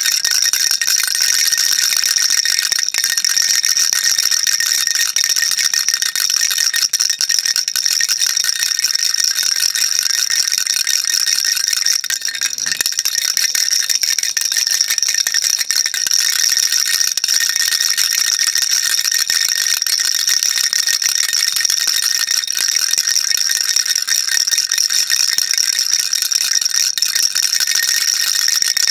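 Baby rattle shaken without pause, a dense, continuous high-pitched rattle of small beads inside, with a short dip about twelve seconds in.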